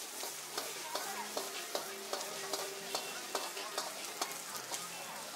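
Noodles sizzling in a hot iron sizzling plate as metal tongs toss them, with a steady hiss and sharp clicks of the tongs against the plate two or three times a second.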